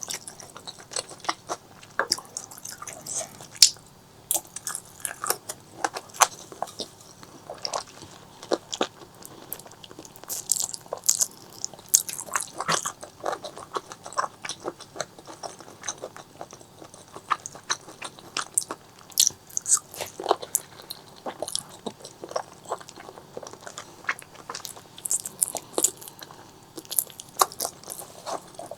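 Close-miked eating: biting and chewing with crisp crunches and wet mouth clicks, coming irregularly and closely spaced.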